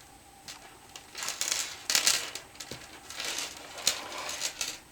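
Rustling and light handling noises of yarn being worked with a crochet hook, in two soft bursts of scratchy rustle with a few faint clicks.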